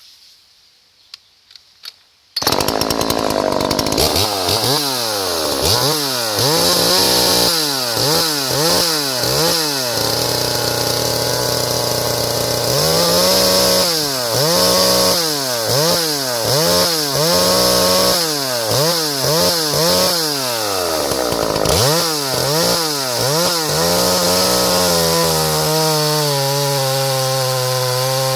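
A small two-stroke chainsaw starts suddenly after a few clicks. It is revved in quick throttle blips, its pitch rising and falling about once a second, then settles to idle near the end.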